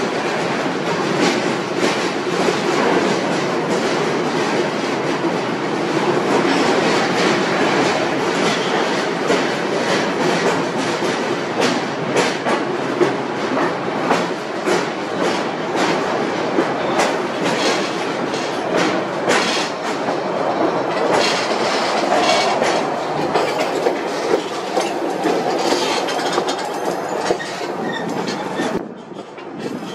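White Pass & Yukon Route narrow-gauge train running through a rock tunnel: a steady loud rumble with rapid clicks of the wheels over the rail joints. The noise drops off sharply near the end.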